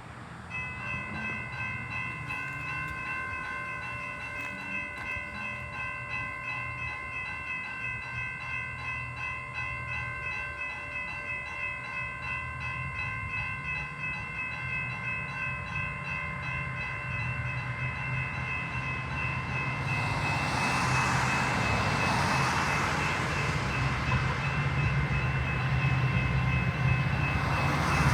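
Railroad grade-crossing bell ringing in a steady, even pulse, starting about half a second in. From about two-thirds of the way through, the rumble and rush of an approaching train builds and grows louder.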